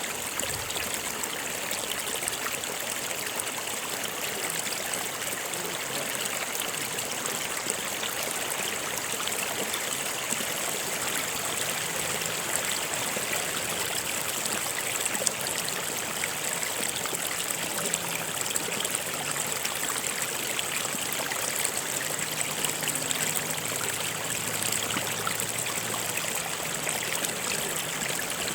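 Stream running steadily over rocks: a constant rushing with fine splashing and trickling.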